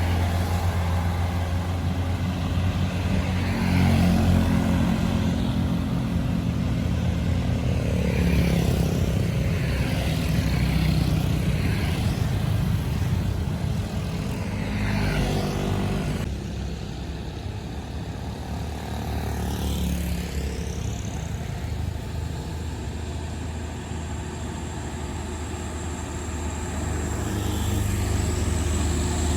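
Truck engine running under load on a steep uphill road, a low steady rumble with other vehicles passing; it gets quieter about halfway through.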